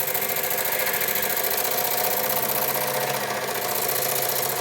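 Small toy live steam engine running steadily at speed, its rapid, even exhaust beats making a fast mechanical chatter.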